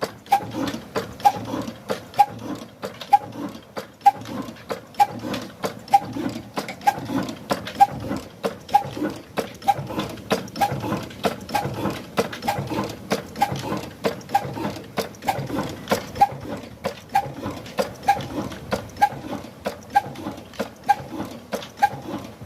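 Old Ruston 'kala' single-cylinder engine running steadily: a slow, regular chugging beat with a sharp knock about once a second and lighter clicks in between.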